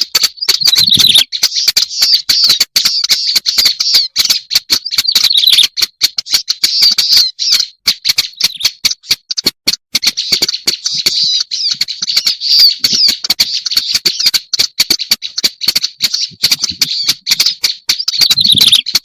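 Black-browed reed warbler song: a fast, continuous run of harsh, chattering notes with a few short breaks.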